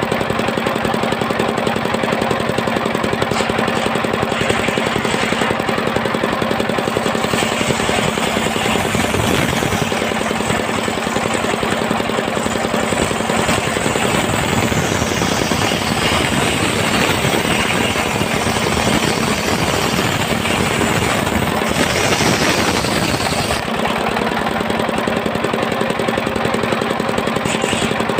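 Engine-driven portable circular sawmill running with a steady, rapid pulse. From about eight seconds in, a harsher hiss builds as the blade cuts through a log, then drops off abruptly about twenty-three seconds in.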